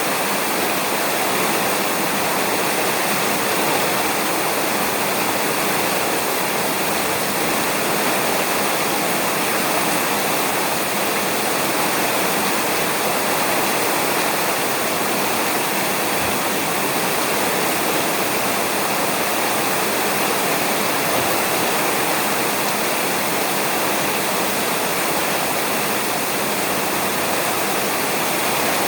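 Steady heavy rain falling on a roof, an even, unbroken hiss of drops.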